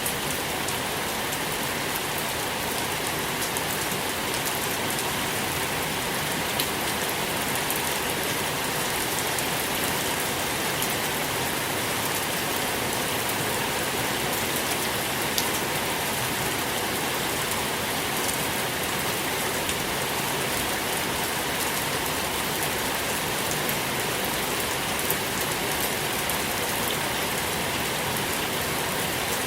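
Steady rain falling, an even hiss with a few distinct drops ticking now and then.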